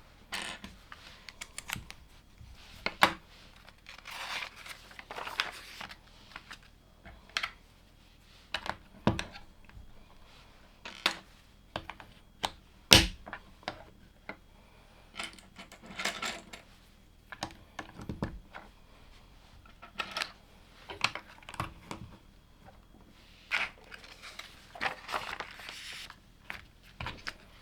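Plastic LEGO bricks clicking and clattering at an uneven pace as pieces are picked up, set down and pressed together. There are a few short bursts of rustling as loose pieces are sifted, and one sharp click about 13 seconds in is louder than the rest.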